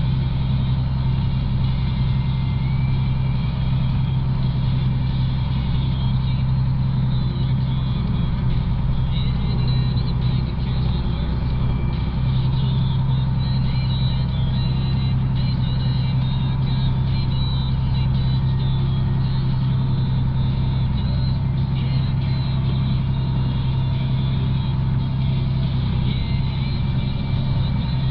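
Engine of a farm vehicle running steadily while driving, a continuous low drone.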